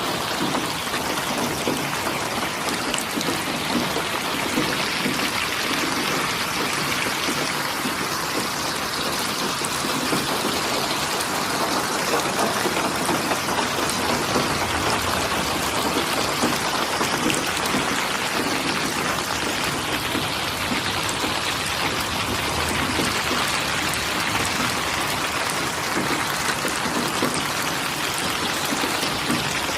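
Steady rain falling, a dense even hiss of many drops striking surfaces.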